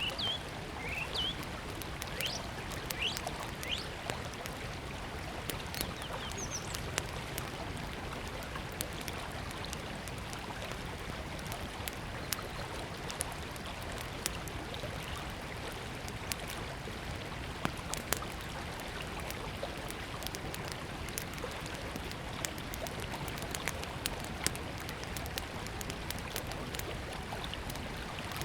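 Small wood fire crackling with scattered sharp pops over the steady rush of a river. A few short bird chirps come in the first few seconds.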